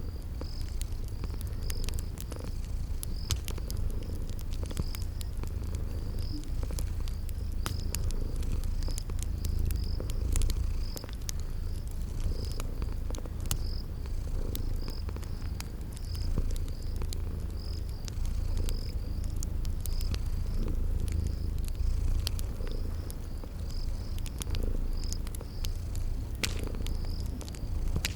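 Cat purring in a steady low rumble, with crickets chirping at an even pace and the scattered small pops and crackles of a fireplace fire.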